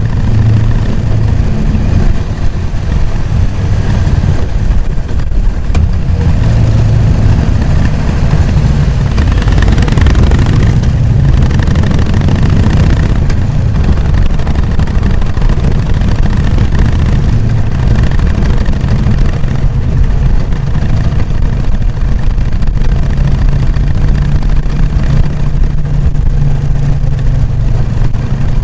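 Harley-Davidson Sportster XL883N Iron's air-cooled 883 cc V-twin running through its stock exhaust while riding, the engine note shifting with the throttle. Wind noise grows louder around the middle.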